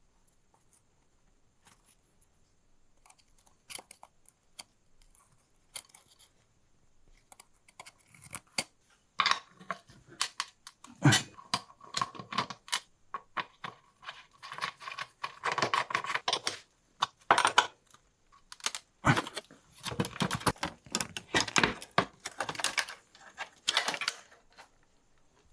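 Metal tools and bicycle parts clinking, rattling and scraping as they are handled, in irregular bursts that grow busier and louder after the first several seconds.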